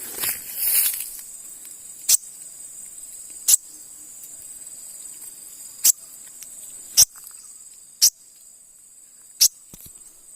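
Steady high-pitched trilling of crickets or other insects, with rustling in the first second and six short, sharp high chips spaced about a second or so apart.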